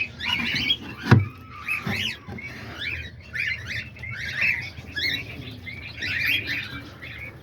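A flock of small cage birds (cockatiels, budgies and lovebirds) chattering with many short, high chirps. A sharp knock about a second in is the loudest sound, followed by a smaller one about a second later.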